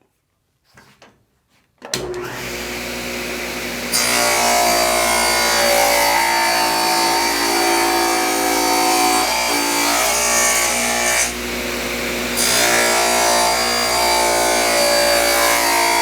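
Table saw starting up and running, then ripping a board lengthwise from about four seconds in, with the blade cutting through the wood over the motor's steady hum. The cutting drops away briefly about eleven seconds in, then resumes.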